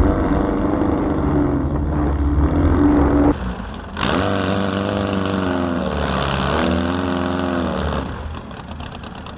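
Air-cooled Volkswagen flat-four engine running hard off-road. Its pitch climbs and falls twice between about four and eight seconds in, under a loud hiss, then drops back lower near the end.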